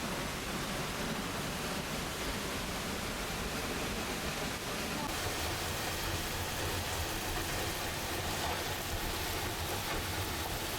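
Steady, even rushing roar of a waterfall, its tone shifting slightly about halfway through.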